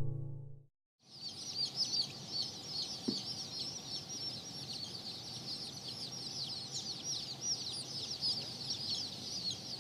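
Flock of Splash Polish chickens: a dense, continuous chorus of short, high peeps, each sweeping downward, starting about a second in over a faint low hum.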